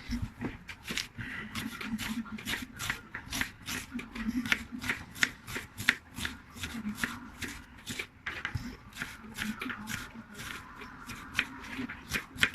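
Food being prepared by hand: quick, repeated rasping strokes, about three a second.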